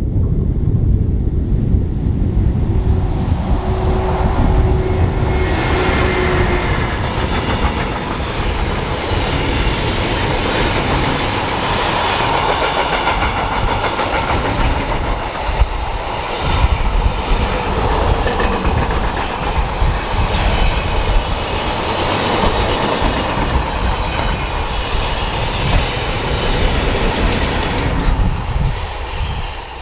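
Train approaching and passing at speed on a main line: wheels on the rails, building up a few seconds in, with a steady tone for a few seconds, then fading near the end. Wind buffets the microphone underneath.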